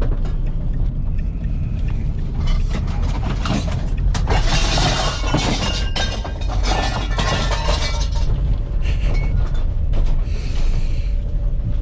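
Inside the cab of a high-mileage van being driven: steady engine and road rumble, with loose metal clattering and rattling from about four to eight seconds in and again briefly near the end.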